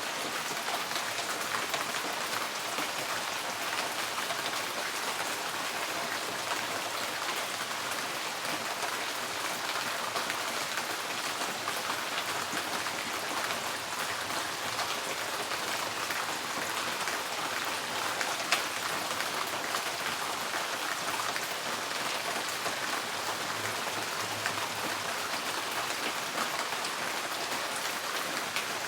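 Steady rain falling on a tin porch roof: a dense, even patter of drops on the sheet metal.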